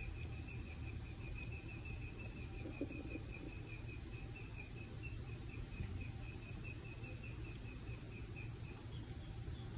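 Small songbirds chirping: a long, fast trill of repeated high notes that stops about nine seconds in, followed by a few higher notes, over steady low background noise.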